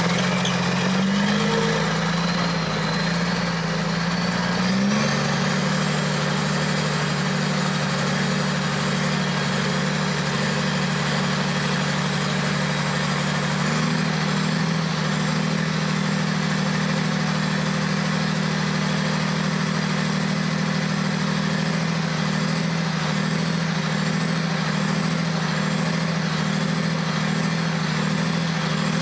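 Mack R600 truck's diesel engine running as the truck is driven. The engine note climbs and steps up over the first few seconds, then holds steady.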